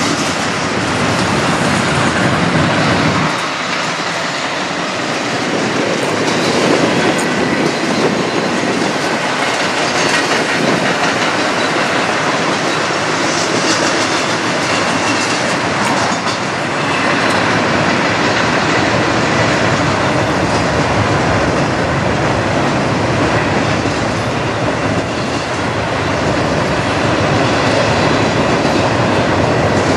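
Double-stack intermodal freight train rolling past, a steady rumble of well cars with wheels clacking over the rail joints.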